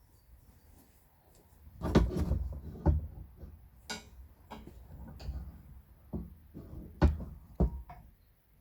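A few irregular knocks and bumps with a low rumble; the loudest come about two seconds in and again about seven seconds in.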